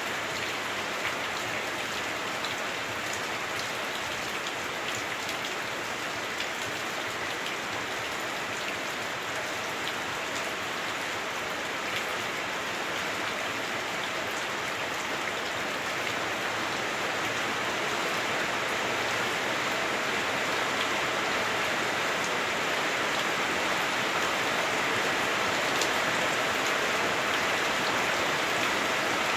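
Heavy rain drumming on a house roof, heard from inside: a dense, steady hiss of countless drops, made a little dull by the roof, growing slightly heavier a little past halfway.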